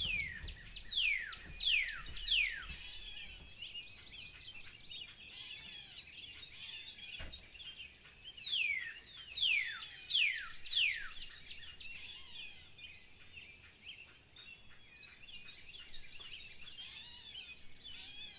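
Birdsong chorus: one bird gives clear whistles that slide steeply downward, in two series of four or five quick notes, about the first three seconds and again around nine to eleven seconds in, over many softer overlapping chirps.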